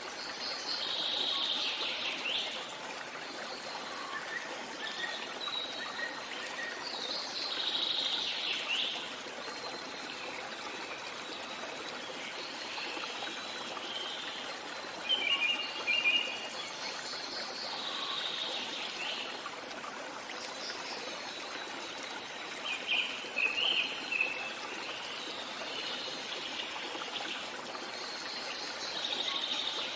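Stream water running steadily, with birds singing over it: a song phrase recurs every five or six seconds, and short, louder bursts of chirps come about halfway through and again some eight seconds later.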